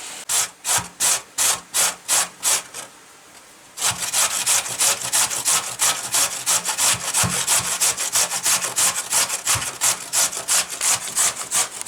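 Kitchen knife shredding cabbage on a wooden cutting board: even strokes about three a second, a short pause, then faster strokes of about four a second.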